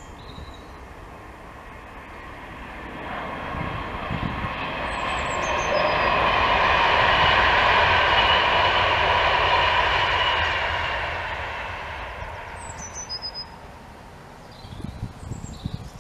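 Class 390 Pendolino electric train passing at speed: its rushing noise swells to a peak about halfway through, then fades away. Birds chirp over it, and wind buffets the microphone near the start and end.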